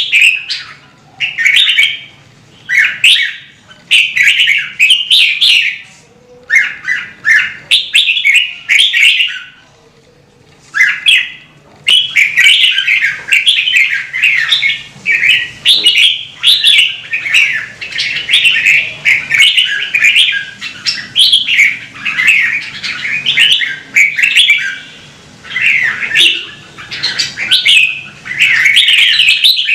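Red-whiskered bulbul singing: loud, short warbling phrases delivered one after another. The song pauses briefly about ten seconds in, then runs almost without a break.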